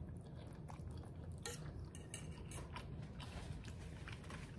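A person chewing a mouthful of noodles with the mouth closed, quietly, with scattered faint wet mouth clicks.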